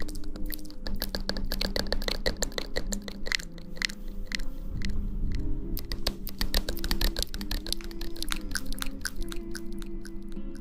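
Close-up ASMR trigger sounds on the microphone: dense, irregular crackling and tapping clicks, close and crisp.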